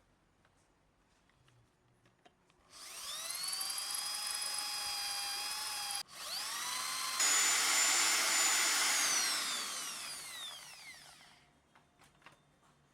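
Small electric power tool motor spinning up with a rising whine and running steadily. It cuts out for an instant, restarts and picks up to a higher speed, then winds down with a falling whine and stops.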